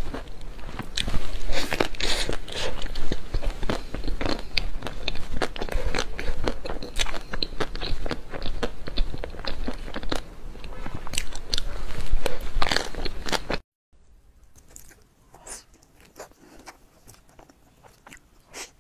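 Close-miked mouth sounds of a person biting and chewing a chocolate-coated dessert, dense wet smacks and crunches with swallows. About fourteen seconds in they cut off abruptly, and fainter, sparser chewing follows.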